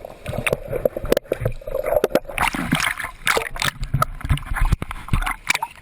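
Seawater splashing and sloshing right at the microphone, with many irregular knocks and some people's voices mixed in.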